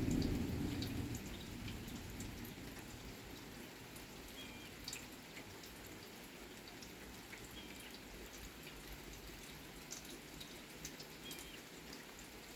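Thunder rumble dying away at the start, then a lull of light rain with scattered drips. A bird gives a short call three times, a few seconds apart.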